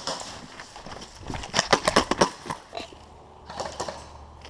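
A burst of rapid, even clicking knocks, about ten a second for under a second, with scattered single knocks and rustling around it: typical of an airsoft replica firing a short automatic burst.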